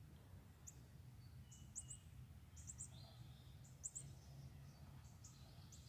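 Faint, high, short bird chirps from small songbirds at a backyard feeder, coming in quick pairs and triplets every second or so, over a steady low background hum.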